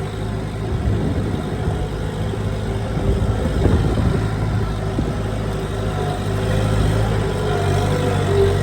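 Kubota M7040 tractor's diesel engine running steadily at plowing work, with a brief clatter about three and a half seconds in.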